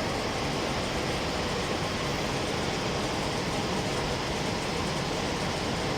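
Steady rushing noise of a large waterfall's falling water, even and unbroken.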